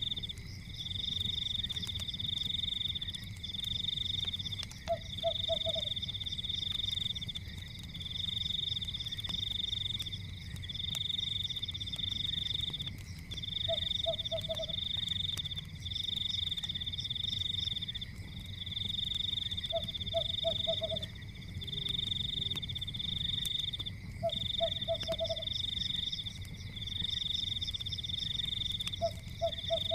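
Night chorus of frogs: a high pulsing trill in bouts of about two seconds with brief gaps, and a lower croak of three or four quick pulses every five or six seconds, over a steady low rumble with a few faint crackles.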